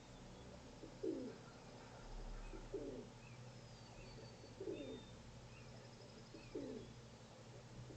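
Common pigeon cooing: four short, low coos about every two seconds, with faint small-bird chirps behind.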